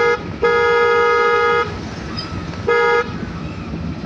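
Vehicle horn honking three times: a brief end of one blast at the start, a longer blast of about a second, then a short toot near the end, over a steady low hum of the car moving in traffic.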